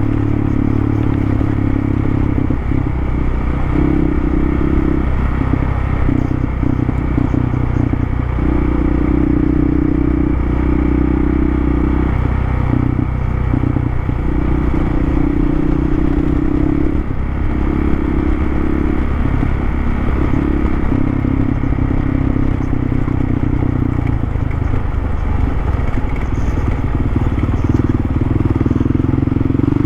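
Dual sport motorcycle engine running under way, its note shifting up and down every few seconds with throttle and gear changes, over steady rough road and wind noise.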